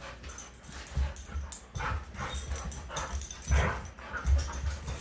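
Dogs playing, making short irregular vocal noises, with uneven low thumps throughout.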